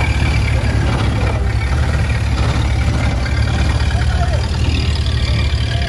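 Engine of a vintage open roadster pickup running at low speed as it drives slowly past, a steady low rumble.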